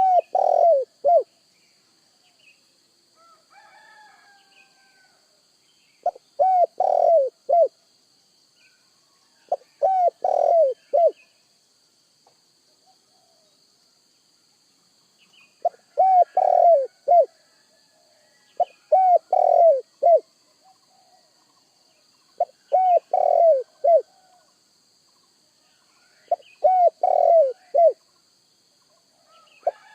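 Spotted dove (tekukur) cooing: phrases of three or four falling coos, each phrase about a second and a half long, repeated every three to four seconds. Faint chirps from other small birds come between phrases, over a faint steady high tone.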